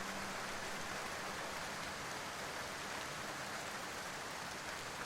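Steady rain, an even hiss of rain falling on a surface.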